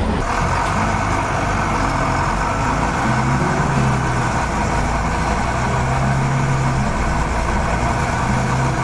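Heavy construction-vehicle engine running steadily, its low note shifting up and down a few times.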